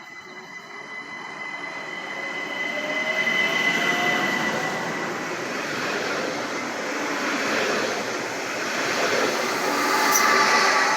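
S-Bahn train passing close by: rumble of wheels on the rails that builds over the first few seconds, with a steady high-pitched wheel squeal and a whine that slowly rises in pitch. The noise swells again near the end.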